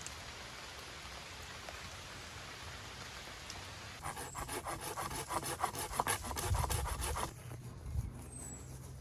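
Steady hiss of rain. About four seconds in, a quick run of rubbing, scraping strokes with low thumps starts and stops suddenly about three seconds later.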